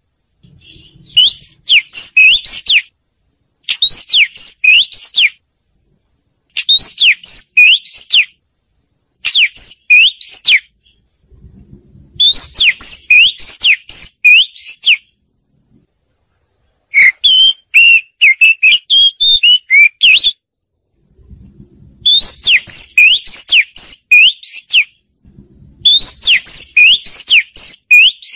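Oriental magpie-robin song: about eight phrases of quick, sweeping whistled notes, each phrase one to three seconds long, with short silent pauses between them.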